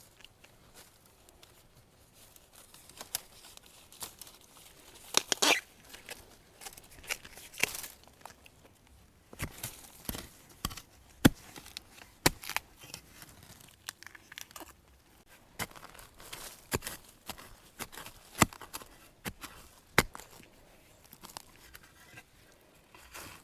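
Dry leaves and twigs crackling and snapping in irregular sharp cracks, with a denser stretch of crackling about five seconds in.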